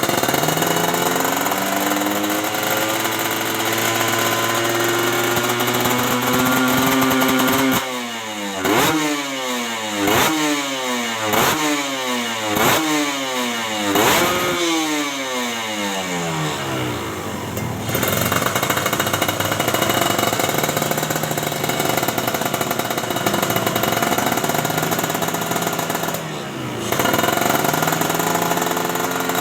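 Motorcycle engine running through a loud aftermarket KNC Racing exhaust, revved for a sound check. The revs climb slowly, then come five quick throttle blips about a second and a half apart, before the engine settles to idle, with one short blip near the end.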